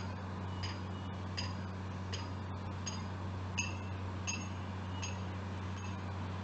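A steady low hum, with a short, faint high-pitched chirp repeating evenly about every three-quarters of a second.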